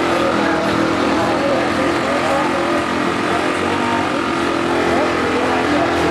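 Small minibike engines running steadily, with crowd chatter under them.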